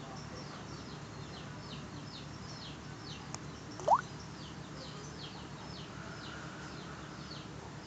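Birds chirping in the background: a steady run of short, high, falling chirps, with one loud rising whistled note about four seconds in, over a faint low hum.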